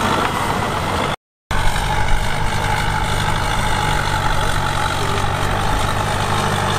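Heavy diesel engine of earthmoving equipment running steadily, with a brief dropout to total silence about a second in.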